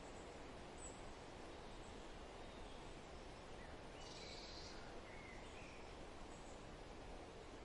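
Faint birds chirping now and then over a steady outdoor background hiss, with a brief cluster of high calls about four seconds in.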